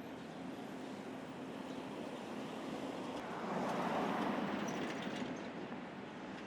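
Street traffic noise, with a vehicle passing that swells up and fades away about four seconds in.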